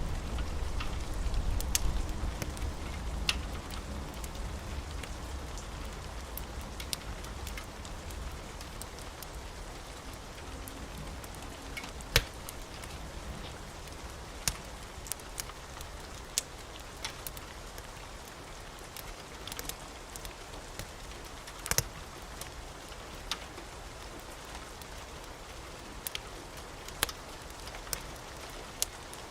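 Steady rain falling, with the low rumble of thunder dying away over the first few seconds, and scattered sharp crackles from a wood fire.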